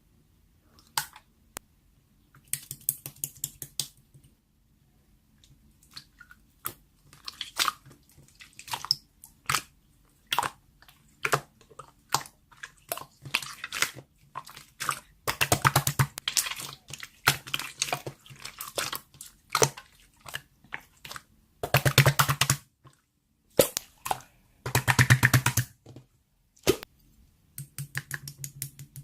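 Slime being squeezed, poked and stretched by hand, giving sticky clicks and small air-bubble pops in irregular bursts, with denser runs of crackling in the second half.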